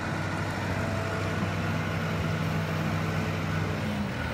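Truck engine running steadily with an even hum that does not change in pitch.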